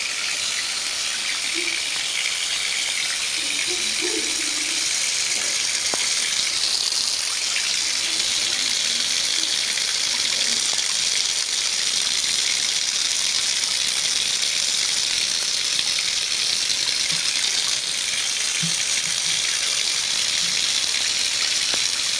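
Water running steadily from a tap or pipe, a continuous rushing hiss that does not let up.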